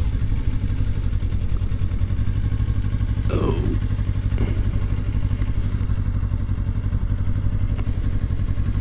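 Kawasaki Ninja 400's parallel-twin engine idling steadily with an even, fast pulse. About three seconds in, a brief falling tone sounds over it.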